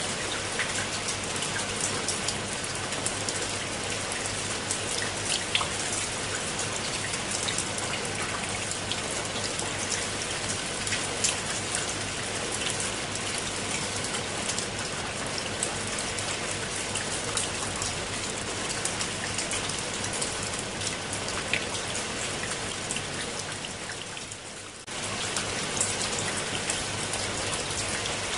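Steady rain falling on leaves and wet stone steps, with many close individual drops ticking through the hiss. The level dips briefly near the end and then comes back at once.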